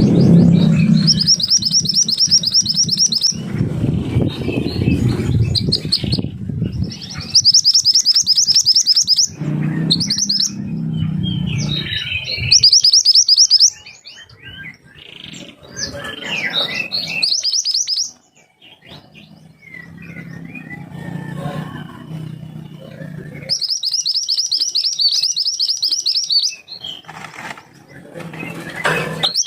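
Captive songbird, the Mantenan Gunung, singing its sharp rapid-fire 'tembakan' calls: bursts of very fast high trills, several lasting one and a half to three seconds, broken by scattered shorter chirps. A low rumble runs beneath the song in places.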